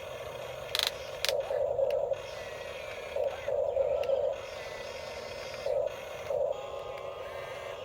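Small electric motors of radio-controlled toy construction vehicles whining in short, irregular bursts as they are driven, over a steady motor hum, with a couple of sharp clicks about a second in.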